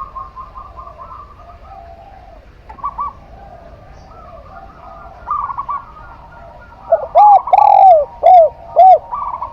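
Zebra dove and spotted dove cooing. Short bursts of rapid stuttering coos come a few times, and near the end a run of four loud, separate arching coos is the loudest part.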